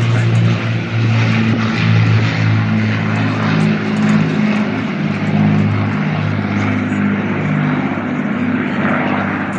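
Rolls-Royce Merlin piston engines of a Hawker Hurricane and a second fighter flying in pair formation: a loud, steady propeller-engine drone whose pitch wavers slightly.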